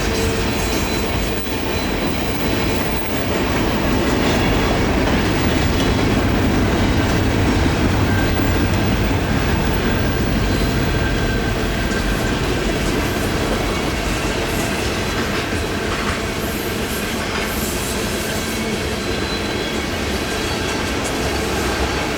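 Freight cars of a long train rolling past steadily on a curve: a continuous rumble of steel wheels on the rails, with a faint high, steady squeal from the wheels in the curve.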